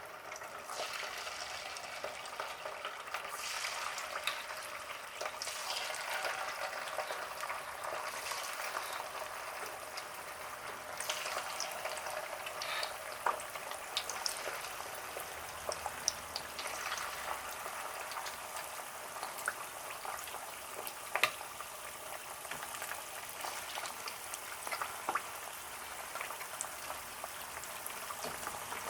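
Food frying in hot oil: a steady sizzle with scattered pops and crackles.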